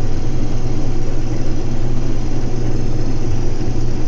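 Case IH 2388 combine's diesel engine and threshing machinery running in a steady drone while harvesting wheat, heard from the cab.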